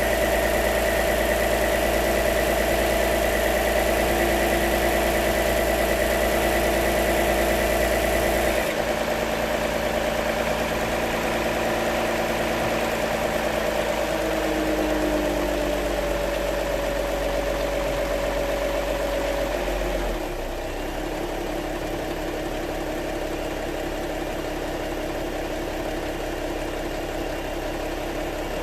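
2016 Lexus GS 350's 3.5-litre V6 idling steadily, running with its newly replaced vacuum pump. Its tone shifts and drops a little in level about nine seconds in, and again about twenty seconds in.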